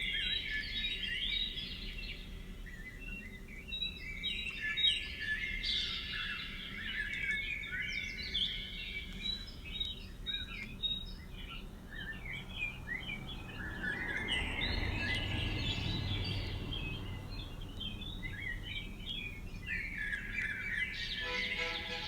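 Many small birds chirping at once, short overlapping calls with no single song standing out. About two-thirds of the way through, a low rushing swell of noise rises and fades under the birds.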